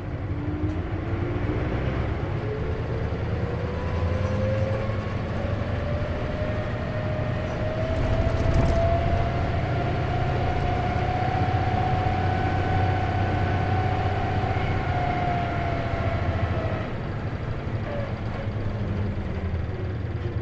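Isuzu KC-LV380N city bus heard from inside while under way: a diesel engine rumble with a thin whine that rises in pitch as the bus gathers speed, levels off, then cuts out suddenly about three-quarters of the way through. This is the bus's abnormal noise, which the owner suspects may be a symptom that can occur with a manual transmission.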